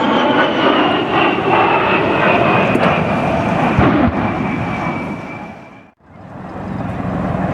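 Fixed-wing military aircraft engines passing, a loud roar with a high turbine whine that falls steadily in pitch. The sound fades out about six seconds in, and another aircraft's engine noise fades back in near the end.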